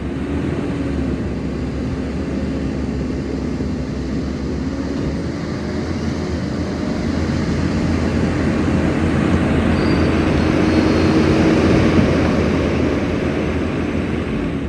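Skid steer engine running steadily with a wavering hum, growing louder about halfway through as it is worked harder, then easing off near the end.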